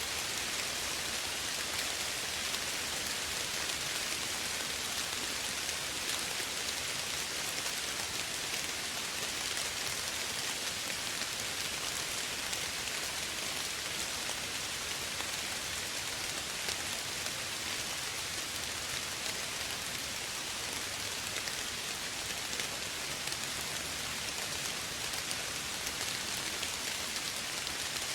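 Steady soft rain falling, an even hiss of many small drops with no thunder or other events.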